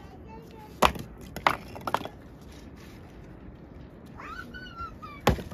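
A small animal gives a high, quavering call, with one long call that rises and then falls about four seconds in. Several sharp knocks come early on and near the end.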